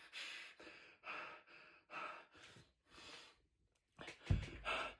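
A man breathing hard and sighing in shock, short breaths about once a second, with a louder breath a little after four seconds in.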